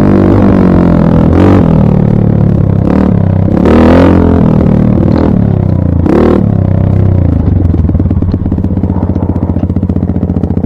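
Dirt bike engine being revved in three short blips, about a second and a half, four and six seconds in, then settling back to a steady idle.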